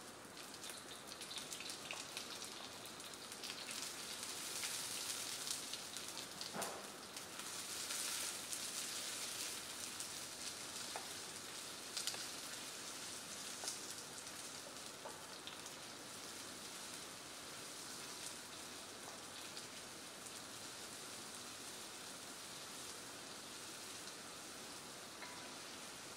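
Sliced onions sizzling in hot oil in a wok over a gas burner as they are stir-fried: a steady crackling hiss, strongest in the first ten seconds or so, then settling. A few light knocks of the wooden spatula against the wok.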